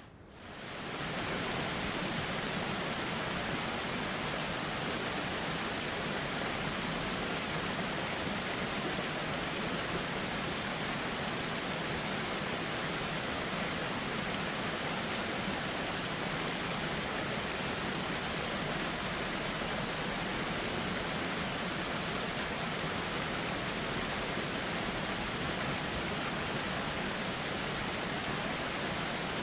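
Steady rushing of a flowing river, an even hiss with no distinct splashes or other events. The sound drops briefly at the very start and swells back within about a second.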